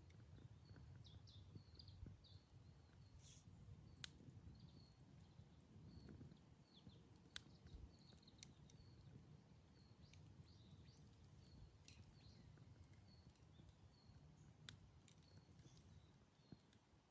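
Wood campfire burning quietly with a low rumble and a few sharp crackles and pops. Faint, short high chirps from small birds repeat throughout.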